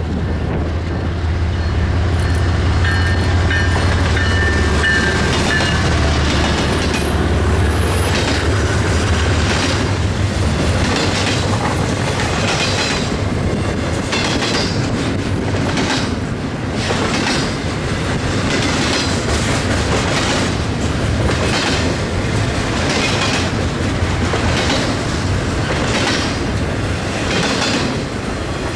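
BNSF diesel-hauled freight train passing close by: a heavy low engine rumble as the locomotive goes past, then the cars' wheels clicking steadily over the rail joints about once a second.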